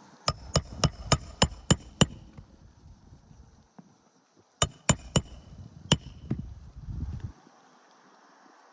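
Hammer driving roofing nails by hand into a roof shingle: a run of seven quick, ringing blows, about three a second, then four more after a pause of a couple of seconds.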